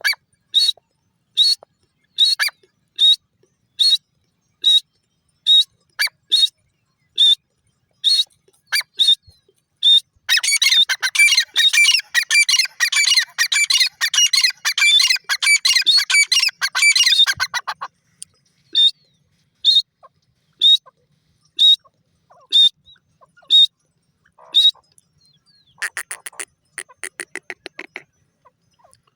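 Grey francolin (teetar) calling: a steady series of short, sharp high notes, a little more than one a second. About ten seconds in comes a dense burst of rapid, overlapping chattering calls lasting about seven seconds. Near the end there is a shorter fast rattle of notes, and then the single notes resume.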